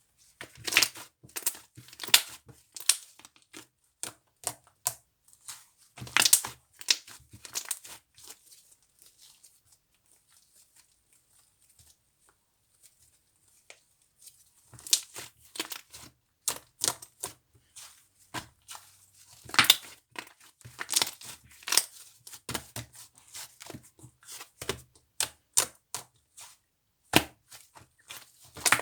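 Slime being squeezed and stretched by hand, giving a run of sharp crackling pops and clicks, with a quiet pause of a few seconds midway.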